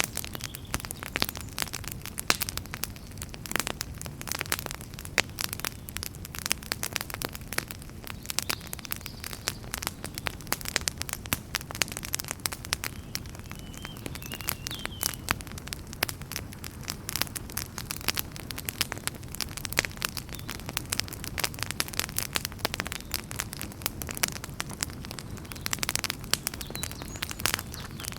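Wood fire burning in a fireplace: dense, irregular crackling and popping over a low, steady rumble of the flames, with a brief faint high whistle about halfway through.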